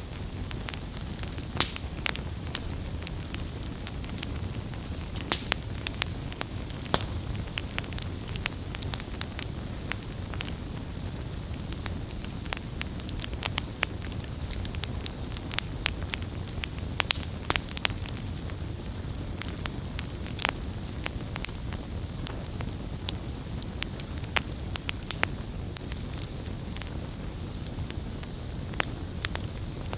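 Wood campfire crackling, with frequent irregular sharp snaps and pops over a low steady rumble of the burning fire.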